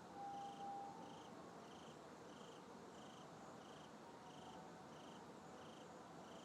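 Faint night ambience with an insect chirping steadily, about one and a half short high chirps a second. A brief steady whistle-like tone sounds just after the start.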